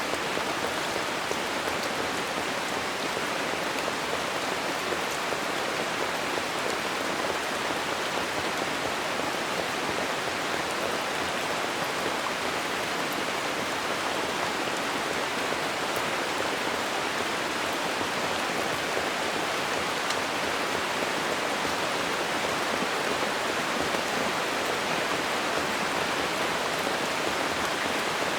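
Steady rain falling on green leaves: a continuous even hiss of drops pattering on foliage, with no change in strength.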